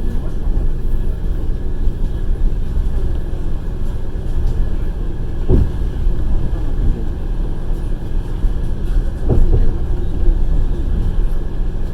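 Passenger train running, heard from inside the carriage: a steady low rumble of wheels on the track, with two louder wheel knocks about five and a half and nine seconds in.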